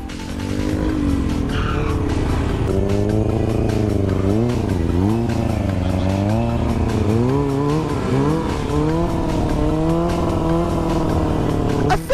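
Motorcycle engine running while ridden, its pitch rising and falling again and again as the throttle is opened and closed.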